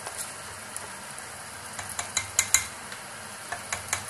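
Chicken and spices frying in hot oil in a pot with a steady sizzle, while a spatula scrapes and taps ground masala off a plate into it: a quick run of sharp clicks about two seconds in and a few more near the end.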